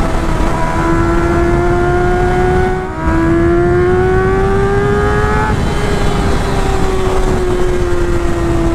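Honda CBR600 F4's inline-four engine pulling hard through a loud exhaust, with wind rushing over the microphone. Its pitch climbs, breaks briefly near 3 seconds as in a gear change, climbs again, then eases off after about 5 seconds and slowly winds down.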